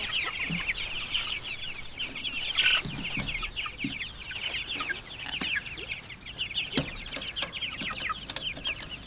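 A flock of young Cornish Cross meat chickens peeping and chattering together, many short, high, falling calls overlapping. Several sharp clicks come in the last few seconds.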